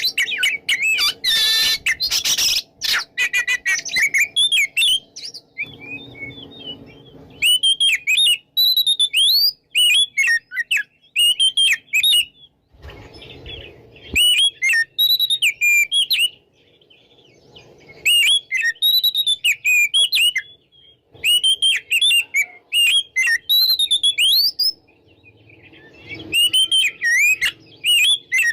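Oriental magpie-robin (kacer) singing in full voice, in loud runs of quick, varied whistled and warbling notes a few seconds long, broken by short pauses. Harsher, rasping notes come in the first few seconds.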